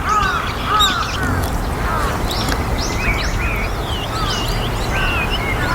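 A flock of white-cheeked starlings calling, with many short overlapping chirps that rise and fall in pitch, over a steady low rumble.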